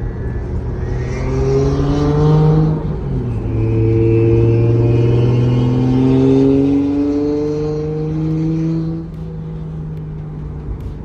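Turbocharged inline-six of a MK4 Toyota Supra accelerating hard, its pitch climbing with a faint high turbo whistle over it. The pitch drops about three seconds in, as at a gear change, then climbs again. The throttle closes about nine seconds in.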